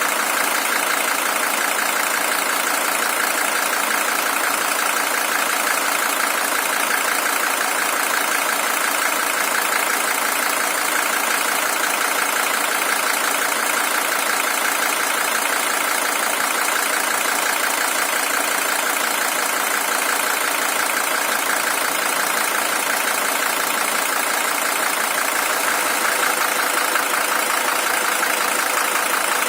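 Mercedes-Benz W123 300TD's OM617 five-cylinder diesel engine idling steadily, an original engine with 620,000 km on it.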